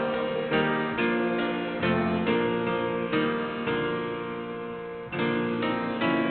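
Instrumental keyboard music, piano-like: a slow run of chords, each struck and then fading.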